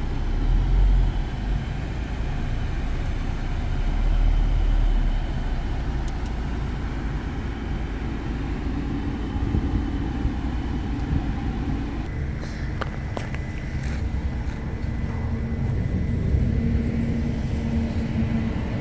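Audi A6 2.0 TDI four-cylinder diesel engine idling. About twelve seconds in, the sound settles into a steadier hum, with a few light clicks.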